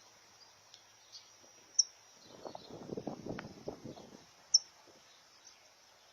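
Outdoor natural ambience: a bird gives a short, sharp, high chirp twice, about three seconds apart, over a faint steady high insect drone. There is a burst of low rustling in the middle.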